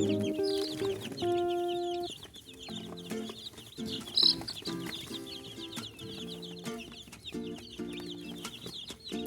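A brood of day-old chicks peeping nonstop, a dense stream of short, high, falling peeps, with one louder peep about four seconds in. Background music with held notes plays under them, louder in the first two seconds.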